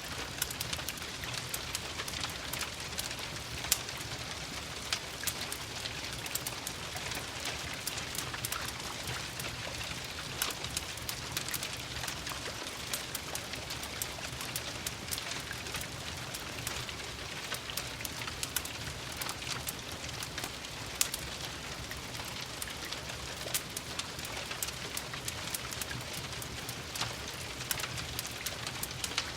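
Steady rain falling, with many small sharp pops and crackles scattered through it from a wood fire burning in a fireplace.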